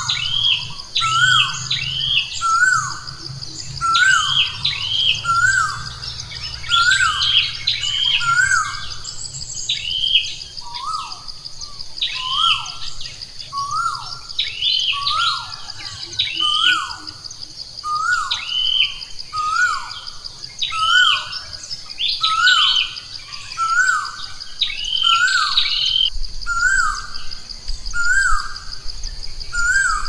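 Bird calls: a short chirp that rises and falls, repeated about once a second, over a steady high-pitched whine.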